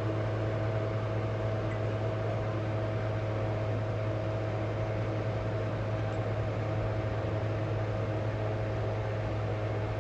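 Steady mechanical hum with an even hiss over it, holding the same pitch and level throughout.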